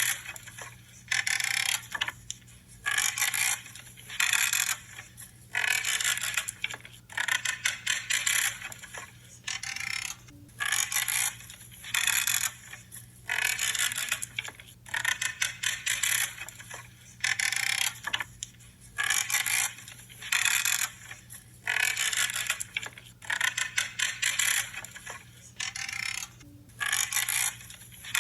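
Small branches being cut with pruning shears, each cut a crunchy creak lasting about half a second. The cuts come one after another, roughly one every second and a half.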